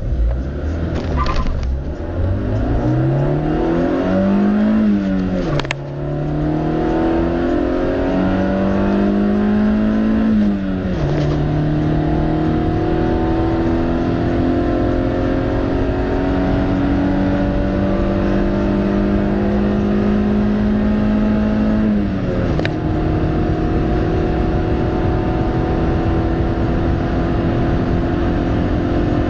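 Honda Civic's stock D15B2 1.5-litre four-cylinder engine accelerating hard from a standstill, its pitch climbing through each gear. Three upshifts drop the revs, about 6, 11 and 22 seconds in, and each gear is longer than the last.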